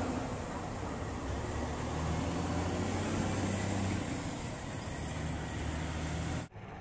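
Passenger train rolling away along the track, a steady low engine hum over a rumble that eases slightly as it recedes. The sound cuts off suddenly near the end.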